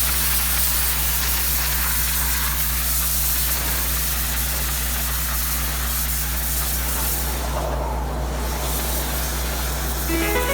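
Pressure washer running steadily while its wand sprays water with a loud hiss. The spray briefly drops away about eight seconds in, and music begins near the end.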